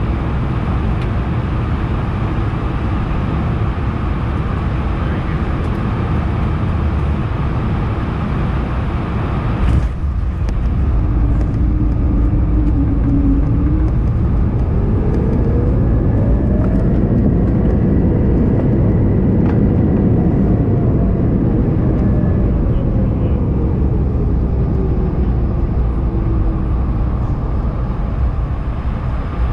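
Airbus A220-100 cabin noise on landing: a steady low rumble with a thump about ten seconds in at touchdown. After the thump the engines' whine rises, holds and winds back down as reverse thrust is applied and released.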